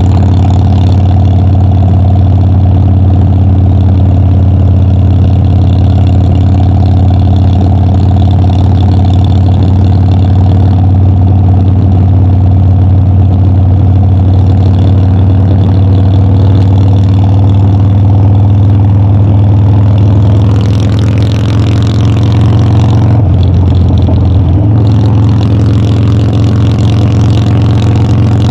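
Harley-Davidson Dyna's V-twin engine and exhaust running steadily while riding. Near the end the engine note briefly drops and changes, then settles again.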